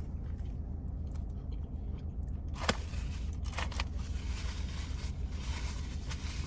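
Someone biting and chewing crunchy fried chicken, with a sharp click a little under three seconds in and a crackly rustle later, over a steady low hum.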